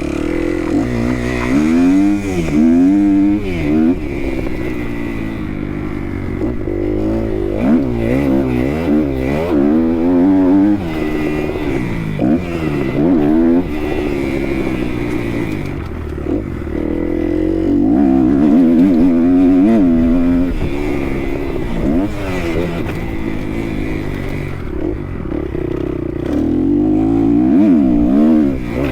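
Kawasaki KX 250 motocross bike engine revving hard and easing off over and over, its pitch climbing and dropping with throttle and gear changes.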